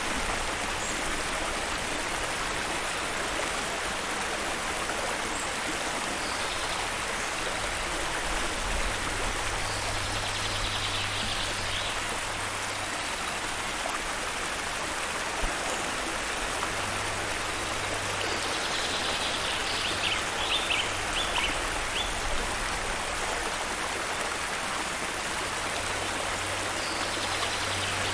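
Steady rushing of a flowing stream, with birds chirping in a few short bursts of quick, high notes now and then.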